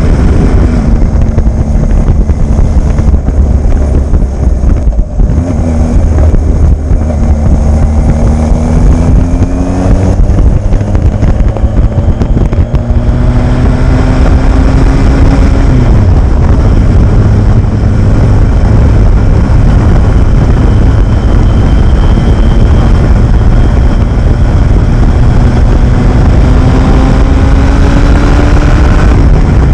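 Kawasaki Z1000 inline-four running through an open straight-pipe quad exhaust while being ridden, loud throughout. The engine pitch climbs in several rising pulls through the gears, falls back sharply about halfway, runs steady for a while, then climbs again near the end.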